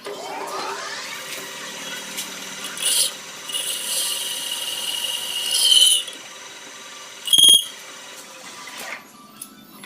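A metal-cutting machine tool working a part. A rising whine as it spins up is followed by a high-pitched squeal of the cutter on metal for about three seconds, and a short ringing tone about seven seconds in.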